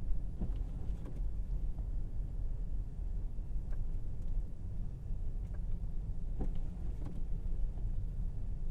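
Steady low road and tyre rumble of an electric Tesla Model Y driving through a snowstorm, with a few faint knocks now and then.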